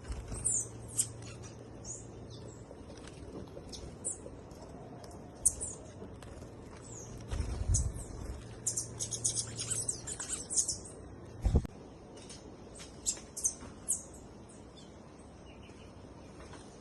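Small birds chirping and tweeting in short, high-pitched calls and quick slurred notes, with a dense flurry of chirps about halfway through. A couple of low thumps cut in partway.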